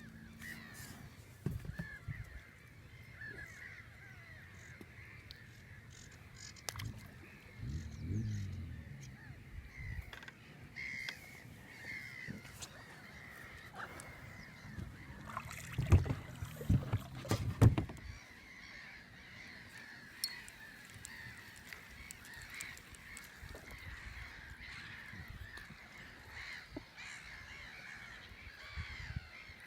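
A steady background chorus of many small animal calls, with a cluster of loud knocks and bumps at about sixteen to eighteen seconds, and a softer bump near eight seconds.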